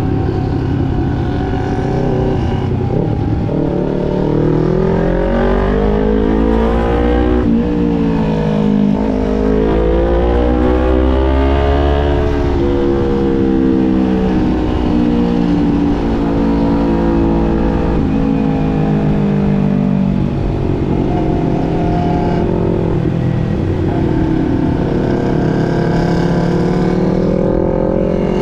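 250 cc sport motorcycle engine under way, its pitch climbing as it accelerates and dropping back at gear changes or off the throttle, several times over.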